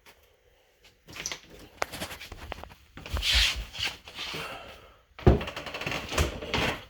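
Rustling, rubbing and clicking handling noises, with a loud thump a little after five seconds in.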